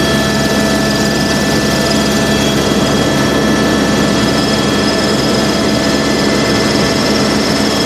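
Helicopter in flight: steady engine and rotor noise with several constant whining tones, and a higher whine that comes in about halfway through.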